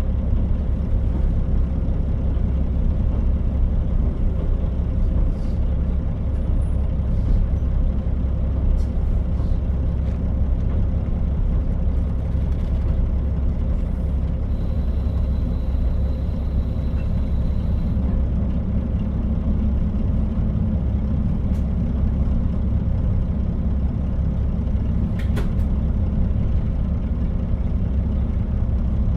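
KiHa 40 diesel railcar under way, heard from inside the car: its diesel engine running steadily with wheels rolling on the rails and a few scattered clicks. A thin high tone joins for a few seconds in the middle.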